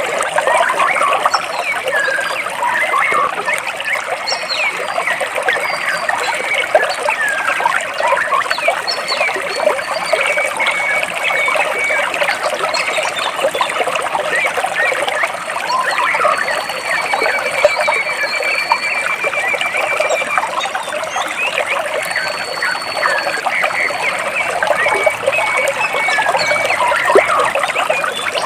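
Water trickling and splashing steadily between rocks in a stream. Birds call over it, with a rapid trill and thin high whistles in the middle.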